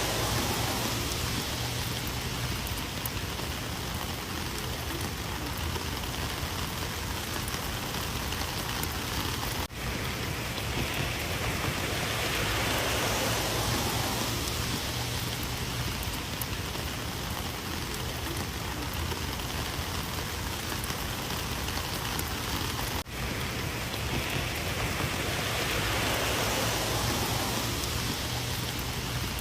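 Rain falling steadily, an even hiss of drops that swells and eases about every thirteen seconds, with two momentary breaks in the sound, at about ten and twenty-three seconds in.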